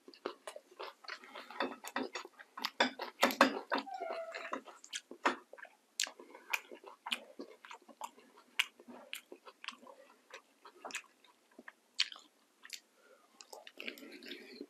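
Close-miked mouth sounds of eating barbecued chicken: wet chewing and smacking with many sharp clicks, busiest and loudest about two to four seconds in.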